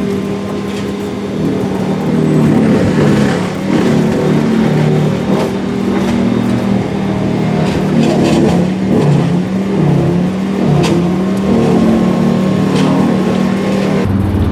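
A vehicle engine running steadily as the dump trailer unloads, its pitch wavering slightly, with a few brief knocks.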